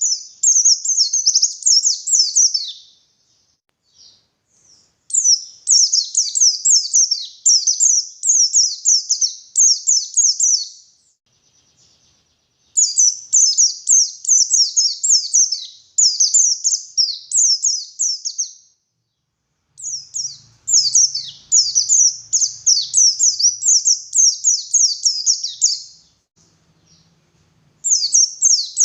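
White-eye (pleci) singing vigorously: rapid strings of high, twittering notes in about five long song bursts with short pauses between them.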